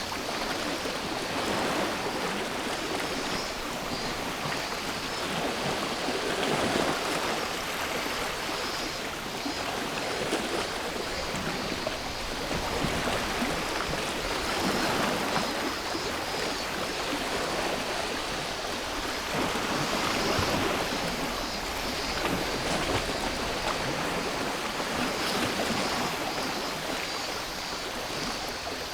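Sea waves washing in, the surf swelling and falling every few seconds, over a steady high chorus of cicadas.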